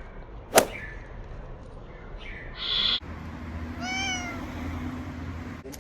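A stray cat gives one meow about four seconds in, rising and then falling in pitch. Before it come a sharp click about half a second in and a brief hissing noise just before the three-second mark.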